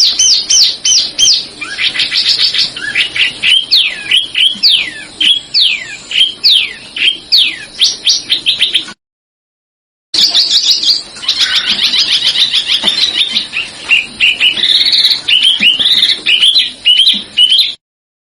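Songbird singing a dense, fast song of quick downward-sweeping whistled notes and rolls, recorded as masteran for training songbirds. It cuts off abruptly about 9 s in and resumes a second later.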